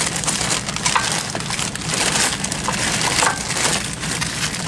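Rummaging through loose parts: a steady run of rustling and crackling with many small clattering knocks as the shifter linkage arms are searched for.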